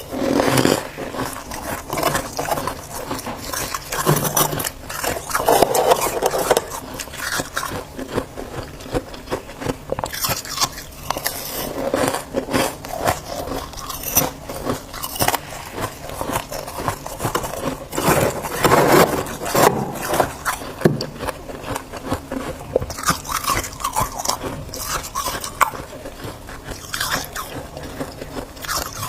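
Freezer frost being bitten and chewed close up: dense, crackly crunching that swells into louder bursts every few seconds.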